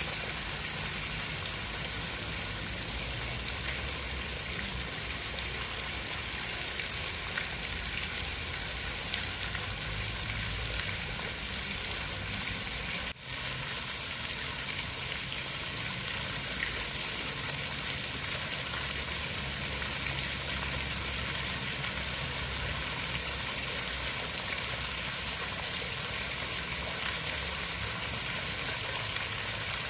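Steady hiss of water, as from falling rain, with a low rumble underneath. The sound drops out for an instant near the middle.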